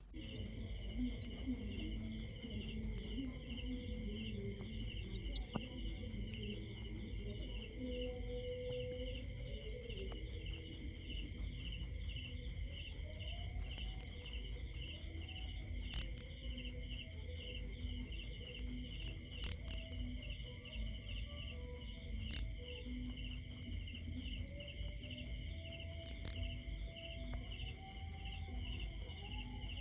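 Cricket chirping in a steady, even rhythm: about four high-pitched chirps a second, without a break.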